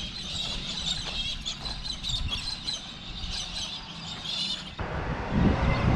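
Birds chirping and twittering, many short high calls overlapping. Nearly five seconds in, the calls stop and a louder steady rush of noise takes over.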